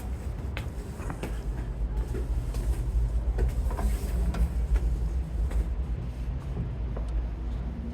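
Low, steady rumble of city street traffic, with scattered light clicks over it.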